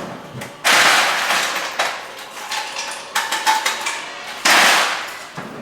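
Ice cubes clattering into a cup from the Bosch refrigerator's ice maker: two loud rushes of cubes, the first about a second in and the second near the end, with scattered clinks between them.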